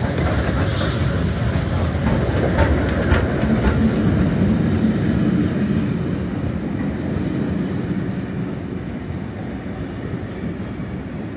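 Heritage steam train with its carriages rolling past close by. Its wheels clack sharply over rail joints a few times in the first few seconds, then settle into a steady rumble that eases a little in the second half.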